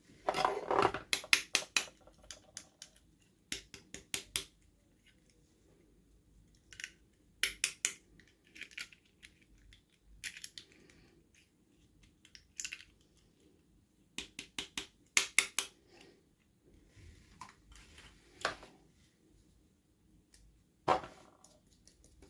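Bursts of quick, sharp clicks and taps from small plastic doll parts and packaging being handled, in short runs with quiet gaps between.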